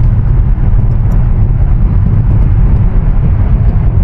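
Steady low rumble of road and engine noise heard from inside a car driving through a road tunnel.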